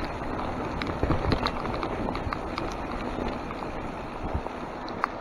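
Mountain bike riding down a wet trail in heavy rain: a steady rush of tyre and rain noise with frequent sharp irregular ticks and taps.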